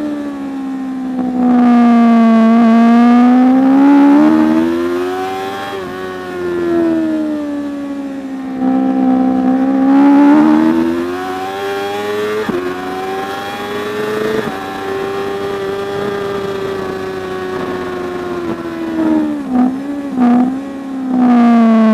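Racing superbike engine pulling hard and backing off through the gears, its pitch rising and falling again and again, with a few quick downshift blips near the end.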